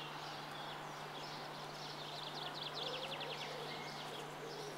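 Songbirds chirping in a garden, with one bird giving a rapid trill a little past halfway. A steady low hum runs underneath.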